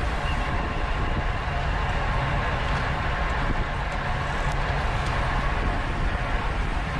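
Steady wind rush and road noise on the microphone of a camera riding on a road bicycle at race speed.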